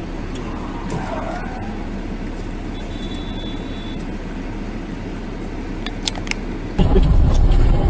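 Steady engine and road noise of a car driving, heard from inside the cabin, with a short high beep about three seconds in and a few clicks near the end. Just before the end it cuts abruptly to louder road noise.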